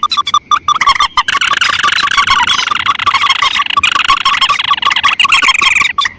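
Bird-lure recording of paddy-field rails and crakes (mandar and tikusan) calling: dense, rapid repeated notes from several birds overlapping without a break.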